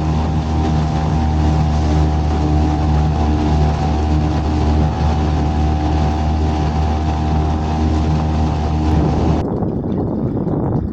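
A boat's outboard motor running at steady speed with a constant pitch. It cuts off abruptly about nine seconds in, leaving rough wind and water noise.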